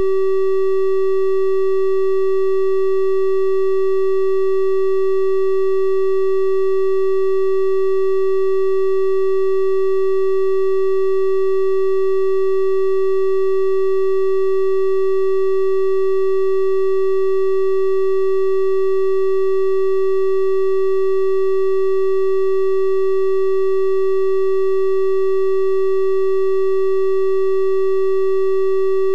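A steady electronic triangle-wave tone at 384 Hz, one unbroken pitch held without change, with faint higher overtones giving it a slightly brighter, hollow edge than a pure sine.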